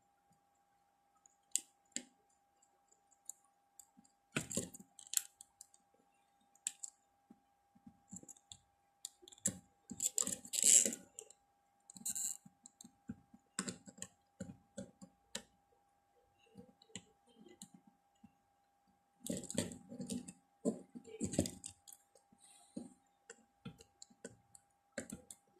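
Scattered small clicks, taps and scrapes of metal tools against a circuit board and its components during desoldering of MOSFETs, in irregular clusters. A faint, steady thin tone sits underneath.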